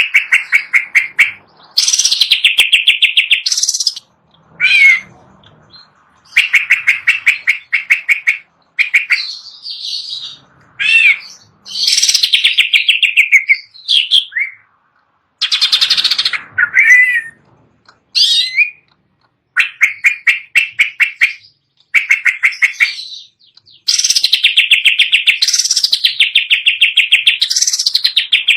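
Green leafbird (cucak ijo) singing: phrases of fast trilled, rapidly repeated notes mixed with short sweeping whistles, each phrase a second or two long with short pauses between.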